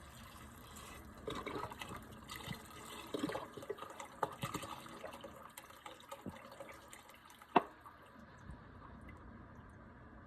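Chicken bone broth being poured into the soup, splashing and dripping irregularly, with one sharp click about seven and a half seconds in.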